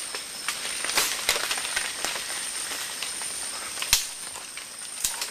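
Rainforest ambience: a steady high-pitched insect drone over hiss, broken by a few sharp cracks or snaps. The loudest cracks come about a second in and just before four seconds.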